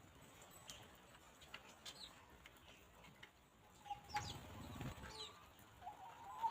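Free-range hens foraging, with a soft short hen call about four seconds in and a wavering call near the end, while small wild birds chirp faintly.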